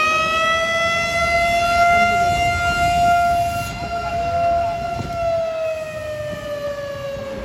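A siren wailing: one long note that rises at the start, holds steady, and falls away over the last couple of seconds.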